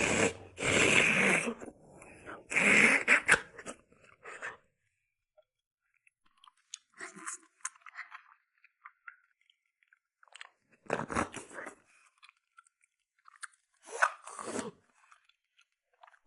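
Close-miked eating: bites and chewing in bursts, loudest in the first few seconds, then quieter clusters of chewing with pauses between.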